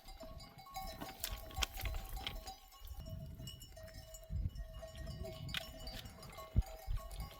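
A flock of sheep and goats on the move, their animal bells clinking in and out, with scattered sharp clicks and knocks.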